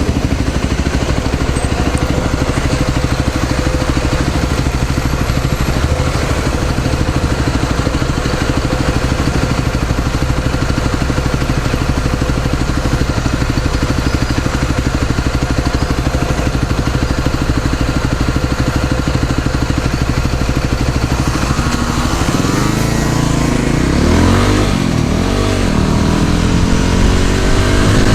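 Small motor scooter engine running steadily while riding. About two-thirds of the way in, the engine note starts rising and falling as the throttle changes.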